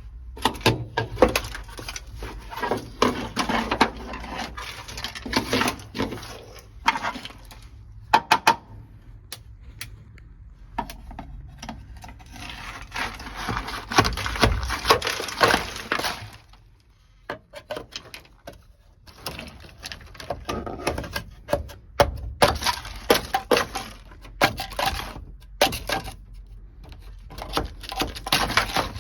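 Sound-deadening mat made brittle with dry ice, cracking and breaking away from the car's sheet-metal floor, with many sharp knocks and clinks as pieces fall. It comes in bursts, with a short lull in the middle.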